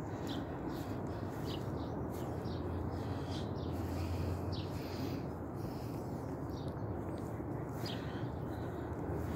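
A small bird chirping, with short high chirps repeated at irregular intervals of about half a second to a second, over a steady low background rumble.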